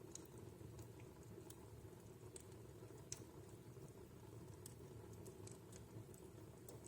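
Wood fire crackling in a fireplace: faint, irregular small pops and snaps over a low, steady rumble, with one sharper snap about three seconds in.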